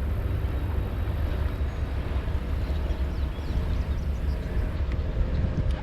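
Wind buffeting the microphone: a steady low rumble, with a faint steady hum underneath.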